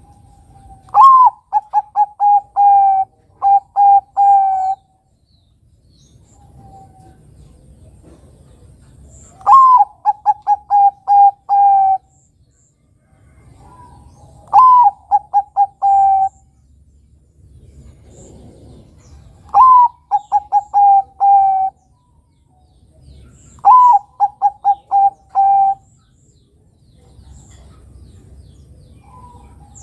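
Bangkok-type zebra dove (perkutut) singing: five cooing phrases a few seconds apart, each opening on a higher note and running into a quick string of short, even coos, with another phrase starting at the very end. It is the song of a prolific (gacor) male, used as a lure to get young birds to sing.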